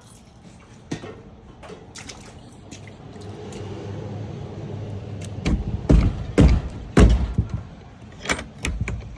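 A run of heavy thuds and knocks, loudest about six to seven seconds in, over a low rumble.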